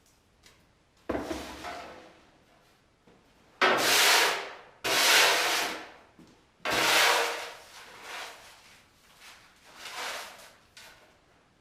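A series of about five rough rubbing strokes, each lasting about a second, with short pauses between them.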